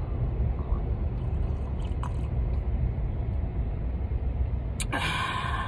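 Steady low rumble of a car idling, heard from inside the cabin. Near the end a sharp click is followed by a short rush of hissy noise.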